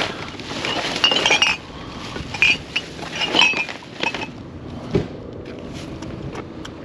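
Junk being shifted by hand in a trash pile: metal and glass clinking and clattering in a few quick bursts over the first few seconds, then a single dull thump about five seconds in.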